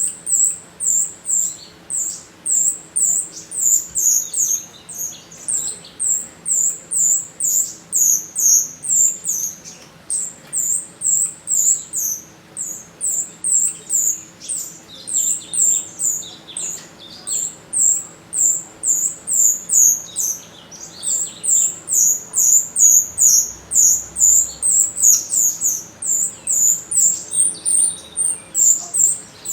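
Jalak rio-rio starling calling in a long unbroken series of high, sharp, down-slurred notes, about two a second. This is a lure call of the kind played to set other birds answering.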